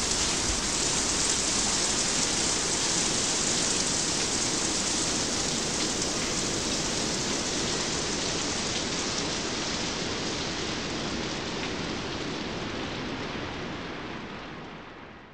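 Steady rain, a dense even hiss of falling drops, fading out over the last couple of seconds.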